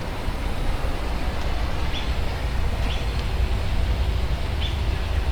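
Steady low rumbling background noise, with three faint short bird chirps about two, three and nearly five seconds in.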